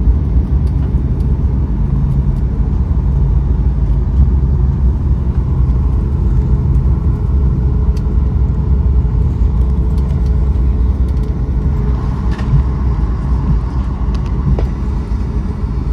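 Boeing 737 MAX cabin noise: a steady, loud low rumble from inside the airliner as it rolls on the runway around landing, with a few faint clicks.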